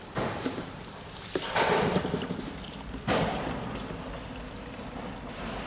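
Rinse water pouring and splashing out of a Bullet 350 motorcycle part being flushed clean, in three gushes about a second and a half apart.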